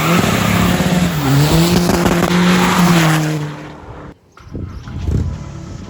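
Tuned VW Caddy's 1.9 TDI PD130 diesel engine with a large turbo, pulling hard at high revs. Its pitch dips briefly about a second in, as at a gear change, then holds steady. The engine dies away after about three and a half seconds, and after a brief cut a quieter engine sound follows.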